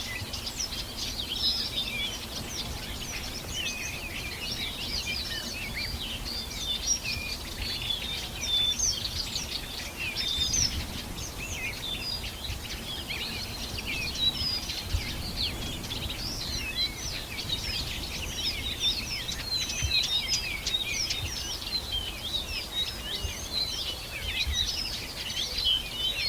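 A dense chorus of many small birds chirping and trilling at once, short high notes overlapping continuously over a faint low background hiss.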